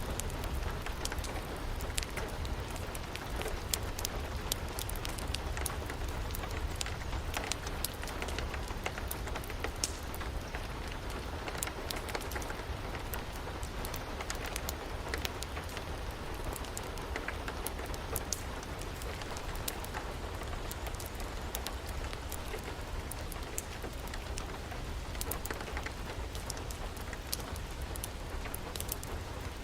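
Steady rain falling, with a wood fire crackling: frequent irregular sharp pops over an even hiss and a steady low rumble.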